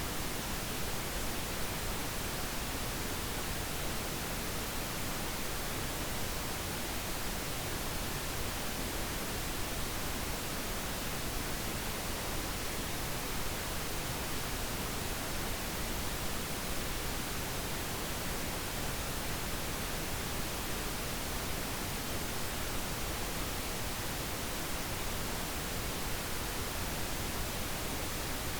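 Steady pink noise: an even, unchanging hiss spread across all pitches, with no tones or breaks.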